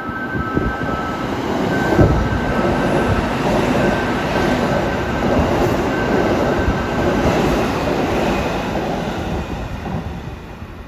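Electric commuter train running through the station, a loud steady rumble of wheels on rails that swells about two seconds in and fades near the end. A thin high squeal sounds in the first half.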